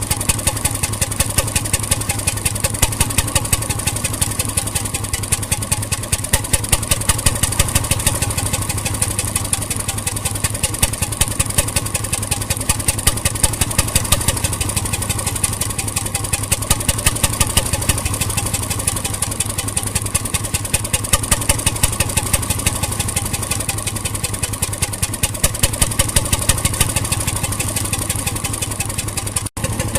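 1921 RSM 3½ HP hotbulb marine engine running steadily, with a rapid, even knocking beat that swells a little at times. The sound breaks off very briefly just before the end.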